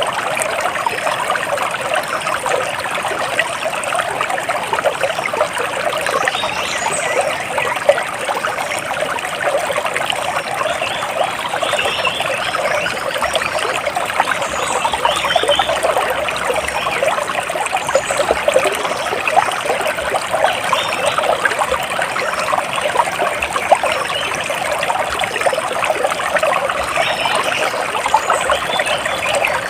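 Water trickling and splashing steadily, a dense continuous patter, with a few faint high bird chirps now and then.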